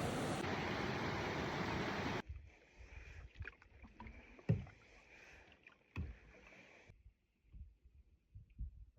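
Loud rushing water of a river spillway, cut off suddenly about two seconds in. Then a canoe being paddled, with scattered knocks of the paddle against the hull.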